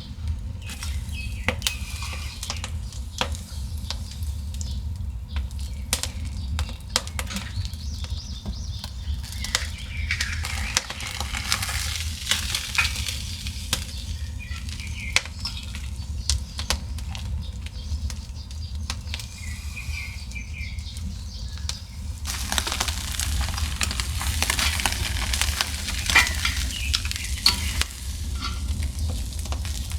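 Food sizzling and spitting over a fire, a steady hiss broken by many sharp pops, over a low steady rumble. The hiss grows louder about two-thirds of the way through.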